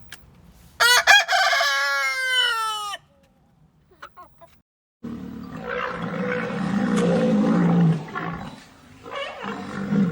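A rooster crowing once, a cock-a-doodle-doo of about two seconds ending in a falling note and cut off abruptly. After a short gap a rougher, noisier sound with a low rumble follows, with a second burst of it near the end.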